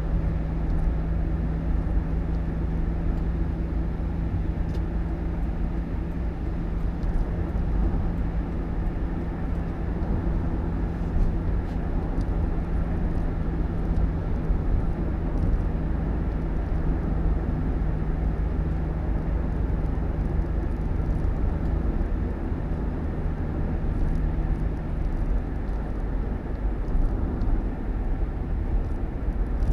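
A vehicle's steady low rumble of engine and road noise, with a constant low hum that fades out about two-thirds of the way through.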